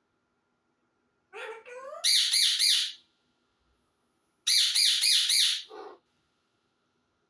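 Pet parrot squawking in two loud bouts of rapid, harsh, repeated calls, each about a second long and a couple of seconds apart. A few rising calls lead into the first bout, and a lower call ends the second.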